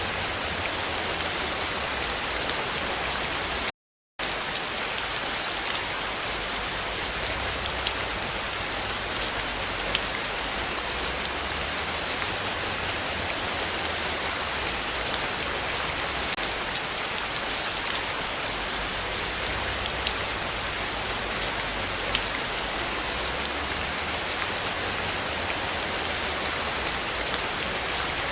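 Heavy rain falling steadily, a dense hiss with many close drop hits. The sound cuts out completely for a split second about four seconds in.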